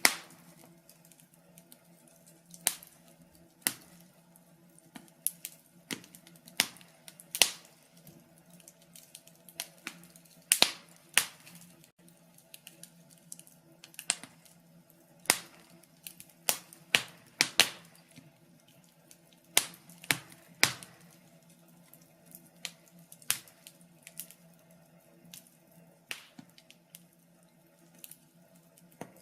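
A fireplace fire crackling: irregular sharp pops, roughly one a second and sometimes two or three in quick succession, over a faint steady low hum.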